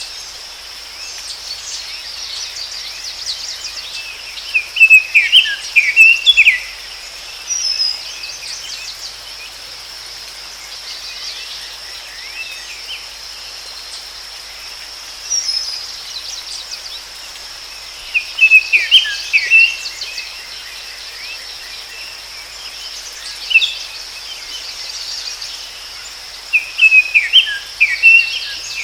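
A songbird singing short phrases of quick notes, repeated every several seconds, over a steady high drone of insects.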